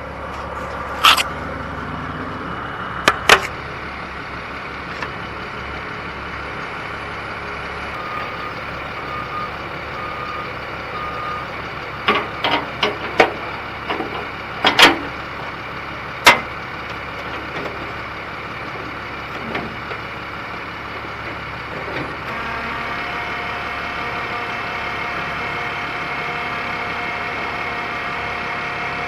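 Heavy excavator's diesel engine working, broken by sharp bangs and cracks of demolition, loudest in a cluster between about 12 and 16 seconds in. A backup alarm sounds four short beeps a little over a quarter of the way in, and the engine steadies at a higher, louder pitch during the last quarter.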